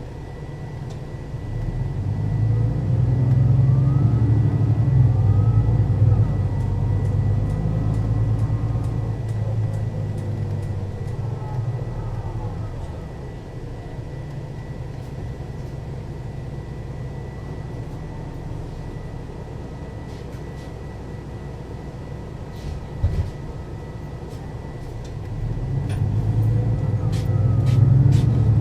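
Mercedes-Benz O 530 Citaro city bus from 2001 accelerating under power, its diesel engine pulling hard with the ZF automatic gearbox whining through rising and falling shifts. Partway through it eases back to a quieter run with a single knock, then pulls away hard again near the end. A steady high whine runs throughout.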